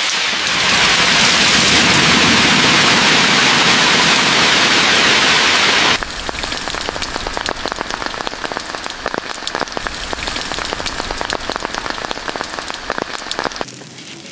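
Heavy rain falling as a dense, steady hiss; about six seconds in it cuts abruptly to rain drops pattering separately on a surface, which fades down shortly before the end.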